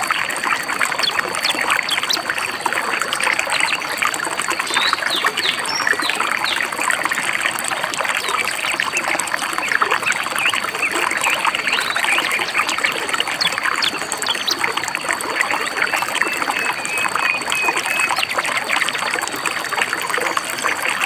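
Shallow stream babbling and splashing steadily over rocks, with small birds chirping now and then above it, including a quick run of repeated chirps near the end.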